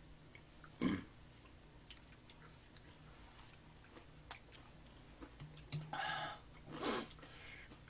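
People chewing fried chicken, with a few light clicks of chopsticks. A short, sharp sound about a second in is the loudest, and there are two soft breathy sounds near the end.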